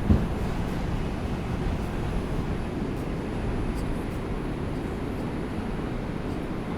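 Steady low rumble inside an R142 subway car, with a single thump just after the start.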